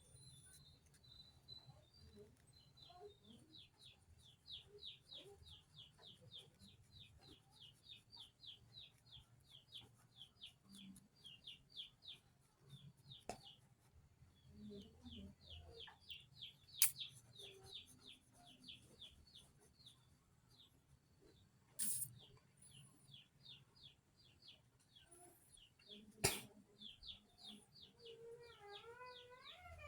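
Faint, fast run of small bird chirps, about four a second, with a few sharp clicks or taps in between. Near the end a cat begins to meow.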